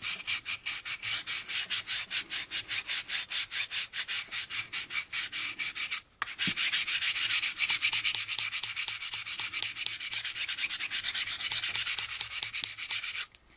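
Sandpaper rubbed back and forth over the seam of a round styrene plastic model part in quick, even strokes, about five a second, to sand the seam line flush. The strokes pause briefly about six seconds in, then run on more densely and stop just before the end.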